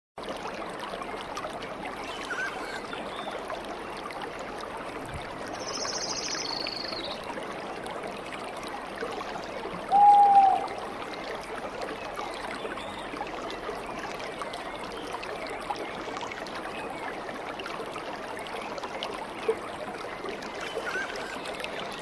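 Stream water flowing steadily, with a few bird calls over it: a high call that steps downward about six seconds in, and a short, loud, clear call about ten seconds in.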